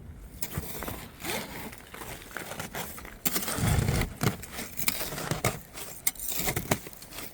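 Ice being scraped and chipped off a car with a spatula: irregular scrapes and cracking clicks, with a dull low thud about three and a half seconds in.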